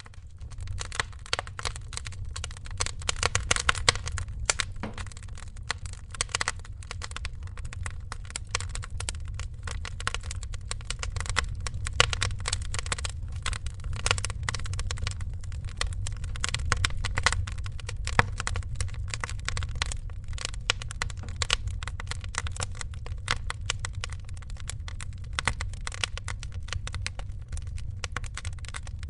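Wood fire crackling, with many sharp pops and snaps over a low steady rumble.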